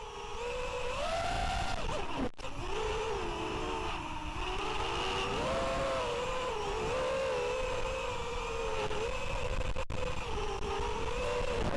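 FPV racing miniquad's electric motors and propellers whining, the pitch rising and falling as the throttle changes, over a heavy low rumble of strong wind gusts on the microphone. The sound cuts out for an instant twice.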